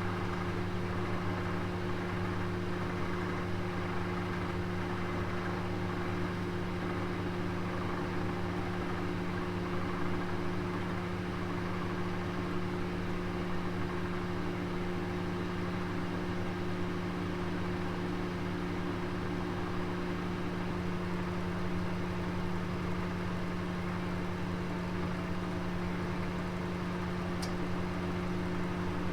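Oven running with a roast inside: a steady low hum and whir that does not change, with one small tick near the end.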